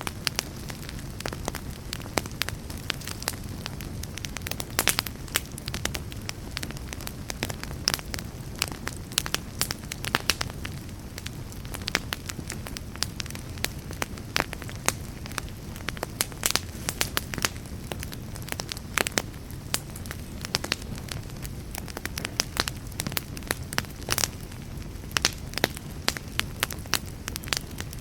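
Burning fire crackling: a steady low rumble and hiss with many irregular sharp crackles and pops, several each second.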